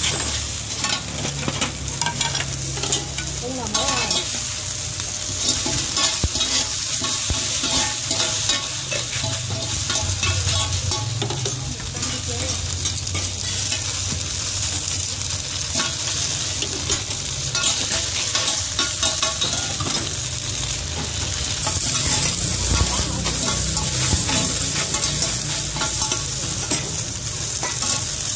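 Cubes of bột chiên (rice-flour cake) sizzling in oil on a large black flat pan, with metal spatulas scraping and clicking against the pan as they are stirred.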